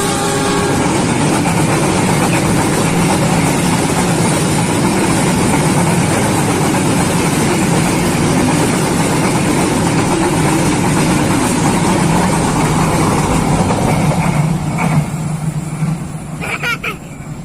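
Train horn ending in the first second, then a train passing a level crossing with a loud, steady rumble. The rumble dies away about fifteen seconds in.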